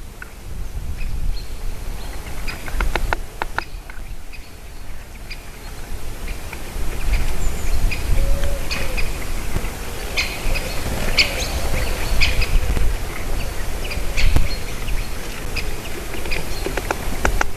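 Small birds chirping and calling in many short, scattered notes, busier in the second half, over a steady low rumble.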